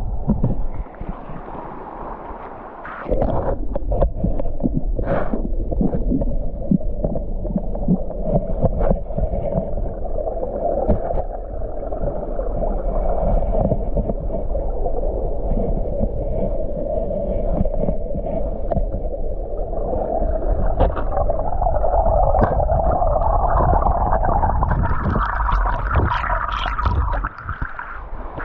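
Muffled rush and gurgle of the Frio River heard underwater through a GoPro camera's waterproof housing, with scattered clicks and knocks.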